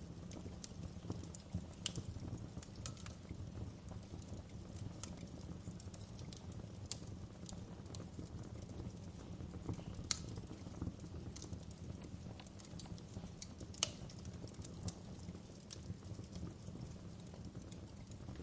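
Fire crackling: irregular sharp pops and snaps over a steady low rumble, with two louder pops about ten and fourteen seconds in.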